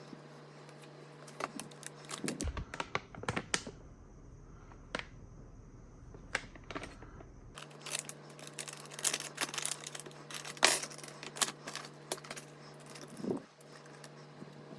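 Small hard PC parts being handled, giving irregular clicks, taps and light rattles in two busy spells with a short lull between, the loudest click near the end of the second spell. A steady low hum runs underneath.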